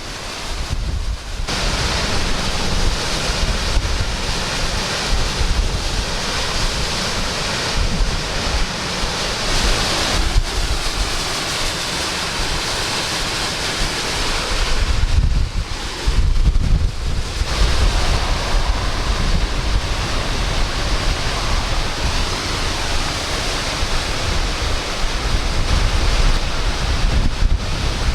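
Severe squall-line high winds rushing, with strong wind buffeting on the microphone: a continuous loud noise with heavy low rumble, and a stronger buffeting gust around the middle where the hiss drops and the low rumble swells.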